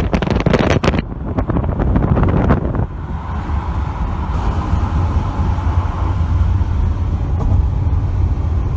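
A road vehicle on the move: a steady low engine and road drone. Wind buffets the microphone hard for about the first second, and the noise stays rough and gusty until about three seconds in.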